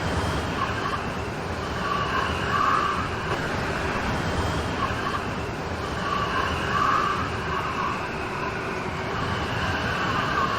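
Steady heavy rain, swelling a little louder in waves about every four seconds.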